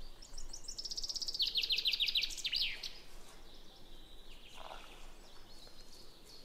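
A songbird singing a fast run of short high notes that falls in pitch, lasting about two and a half seconds, then fading to faint background sound.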